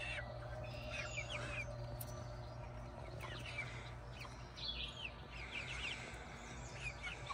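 Faint bird chirps in a few short bursts of quick, high sweeping notes, about a second in and again in the second half, over a steady low hum.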